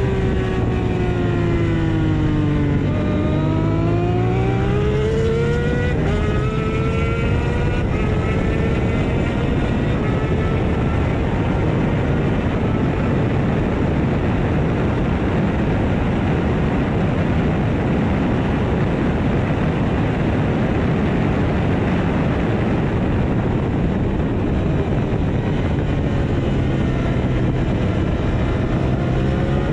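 Onboard sound of a KTM 890 Duke R's parallel-twin engine at racing speed. The engine note drops, then climbs through the gears with an upshift about six seconds in. Through the middle it is buried in wind noise at top speed, and near the end the note falls again as the bike slows.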